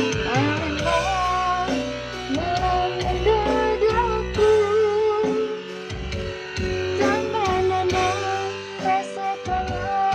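A singer's voice with vibrato over a band backing of plucked strings and drums, played loud through a sound system during a sound check.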